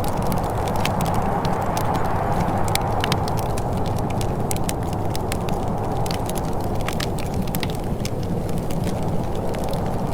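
Wood fire crackling and popping steadily over a low, even rumble of flames, with frequent sharp snaps.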